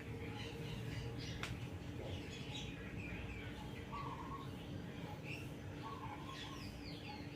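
Birds chirping in short, repeated calls over the steady low hum of an old 56-inch KDK ceiling fan running.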